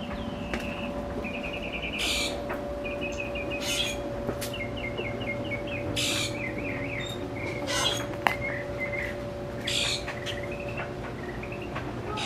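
Birds chirping in quick repeated runs of high notes, broken by several short, harsh, noisy bursts, over a faint steady hum.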